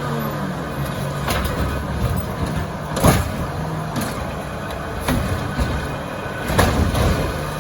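Diesel engine of an Autocar ACX garbage truck with a Bridgeport Ranger body running steadily, with a series of sharp knocks and bangs spaced a second or so apart.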